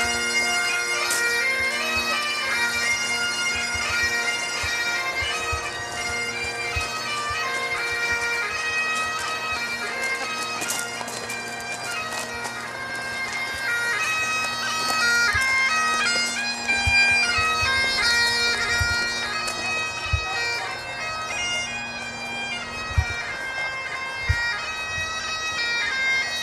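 Highland bagpipes playing a tune, the melody stepping from note to note over steady held drones. A few low knocks sound in the second half.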